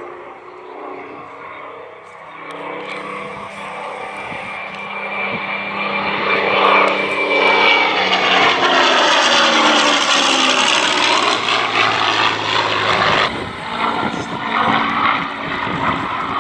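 A propeller-driven piston-engined Second World War fighter flying past. Its engine note grows louder and falls in pitch as it passes, then drops off sharply near the end.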